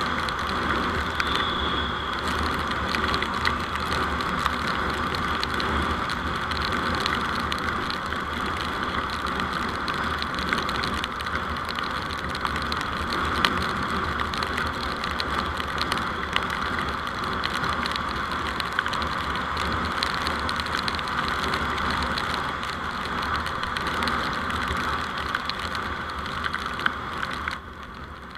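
Steady running noise of a vehicle on the road, picked up by its dash camera: an even hiss with a low hum and many small ticks. The noise drops off sharply near the end.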